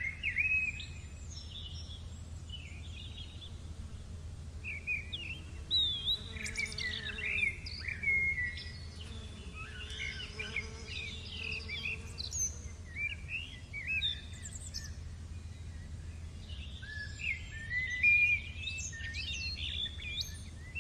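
Several birds chirping and singing, their short calls overlapping, busiest in the middle and again near the end. A steady low hum runs underneath.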